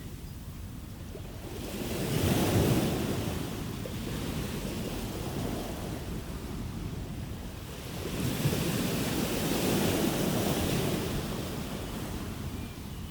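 Ocean waves breaking and washing up a shore, the surf swelling about two seconds in and again about eight seconds in, each surge rising and then fading back.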